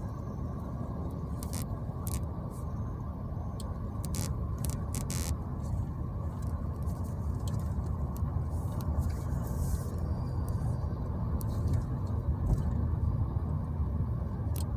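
Steady road and engine rumble of a car heard from inside the cabin while driving, slowly getting a little louder, with a few faint scattered clicks.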